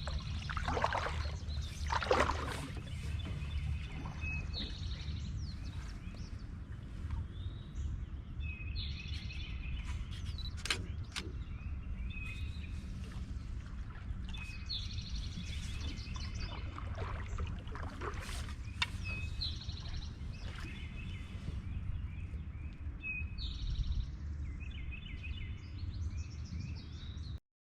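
A songbird singing the same short phrase every few seconds over a steady low rumble, with a few swishing, splashing canoe paddle strokes, the loudest about two seconds in.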